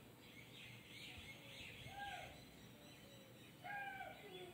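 Quiet background with a few faint chirping calls like small birds: a short one about two seconds in and a longer falling one near the end.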